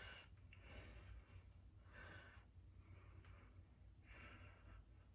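Near silence: room tone with a low hum and a few faint, brief soft noises.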